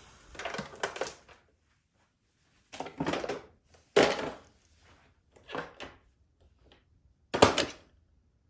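Handling noise: five separate clattering knocks and rattles a second or two apart, a sharp one about four seconds in and the loudest near the end.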